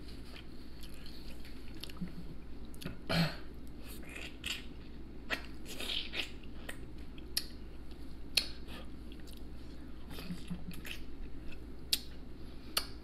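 Close-miked chewing and biting of crispy battered fried seafood, with many short crunches and wet mouth clicks and one louder crunch about three seconds in.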